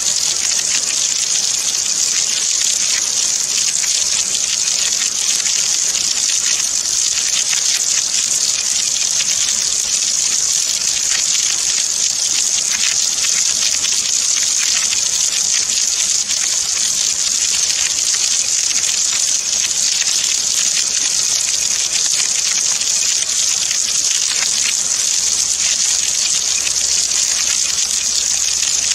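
Rain falling as a steady downpour: an even hiss of countless fine drops that neither builds nor breaks.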